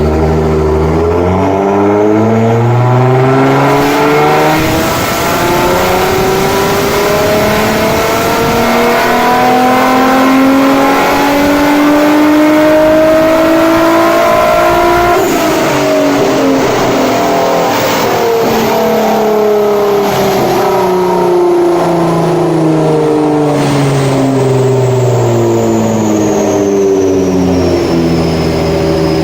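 Nissan GT-R R35's twin-turbo V6 with a catless downpipe and straight-piped exhaust on a dyno pull: engine speed climbs steadily under full load for about fifteen seconds, then the throttle closes and it winds slowly back down. A few sharp cracks come just after the peak.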